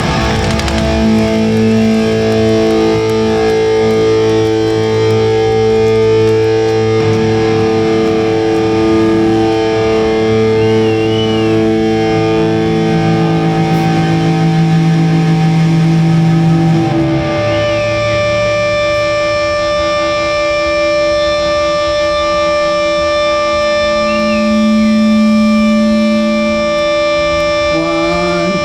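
Distorted electric guitar through a live PA, letting long notes ring and hold between songs. The held notes change about halfway through, when a new higher ringing tone takes over.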